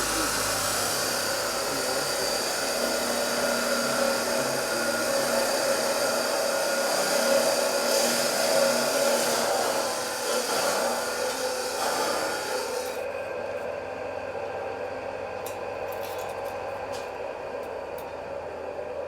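Metalworking tool noise: a steady rasping, grinding sound that cuts off about thirteen seconds in, leaving a lower steady hum with a few clicks.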